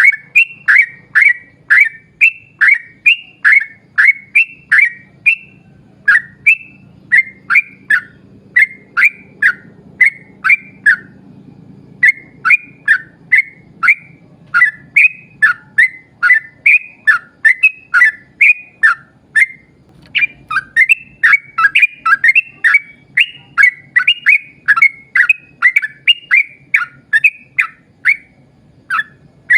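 Yellow-vented bulbul (trucuk) singing a long rapid run of loud, short whistled notes that each sweep downward, about two to three a second, broken only by a few brief pauses.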